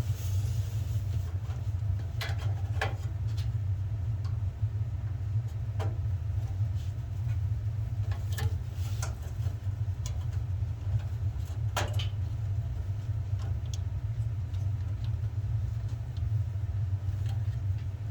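A steady low rumble with a few light clicks and taps scattered through it, typical of small hand work on wires and a circuit board.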